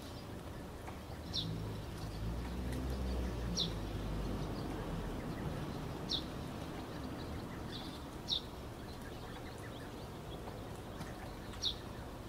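A bird calling repeatedly: five short, high notes, each falling in pitch, spaced a couple of seconds apart, over a steady background hiss. A low rumble swells and fades in the first few seconds.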